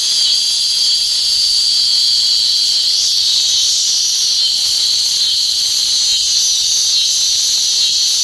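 Steady, high-pitched insect chorus: a continuous buzzing hiss of late-summer insects that holds without a break.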